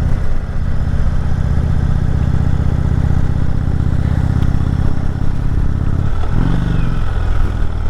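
Indian Chieftain Dark Horse's V-twin engine running steadily under way, heard from on board the motorcycle. About six seconds in the revs briefly drop and then climb again.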